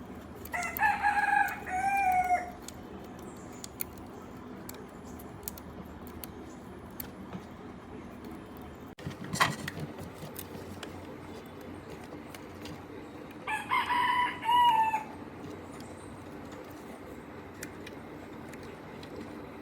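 A rooster crowing twice, about a second in and again around fourteen seconds, each crow lasting about two seconds and ending on a falling note. A single sharp knock comes about halfway between them.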